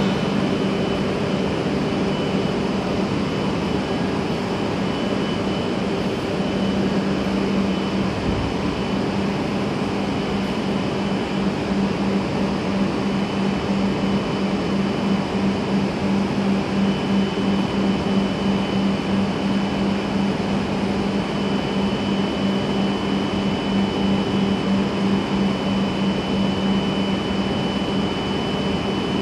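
A stationary E5 series Shinkansen idling at the platform. Its air-conditioning and onboard equipment give a steady hum with a thin high whine above it.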